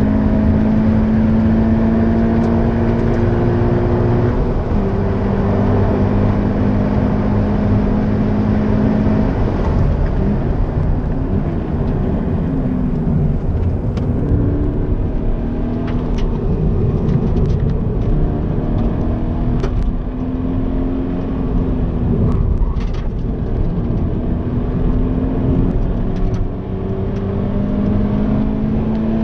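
Stock Toyota GT86's FA20 flat-four engine heard from inside the cabin, driven hard: its pitch climbs as it accelerates, with two drops at gear changes in the first ten seconds. Through the middle it falls and rises through braking and cornering, with a few short clicks, and near the end it pulls up again.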